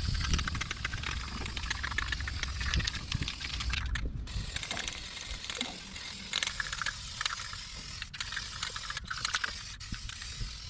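Quick ratchet-like mechanical clicking and rasping, broken by several abrupt cuts.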